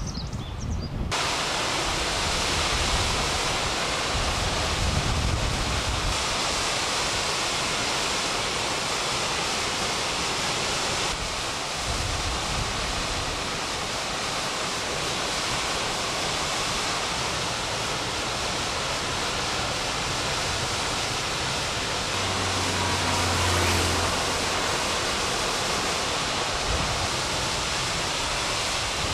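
Waterfall: a steady, dense rush of falling water that comes in about a second in and holds on without change.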